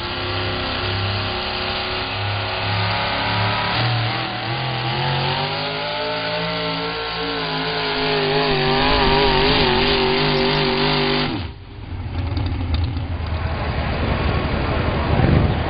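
4x4 pulling truck's engine at full throttle on a pull, its pitch climbing and then held high with a wavering rise and fall, cutting off suddenly about eleven seconds in. A lower, rougher engine rumble follows.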